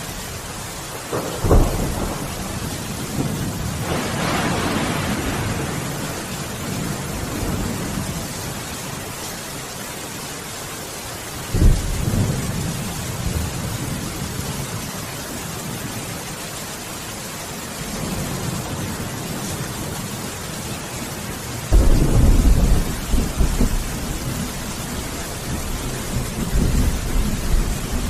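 Steady heavy rain with thunder: three sharp thunderclaps, about a second and a half in, about twelve seconds in and about twenty-two seconds in, each rumbling on afterwards, the last one rolling for several seconds.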